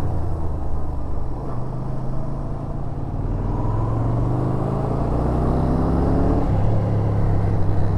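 Yamaha SRV250's V-twin engine under way, heard from the rider's seat: its pitch dips, then rises steadily as the bike accelerates, and drops sharply about six and a half seconds in before settling.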